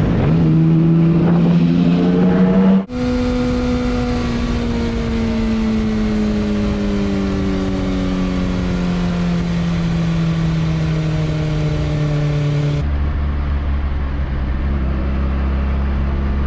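Motorcycle engine heard from the rider's camera: revs climbing for a few seconds, then after an abrupt change the engine note falls slowly as the bike slows, then after another abrupt change it runs at a steady note over a heavy low rumble.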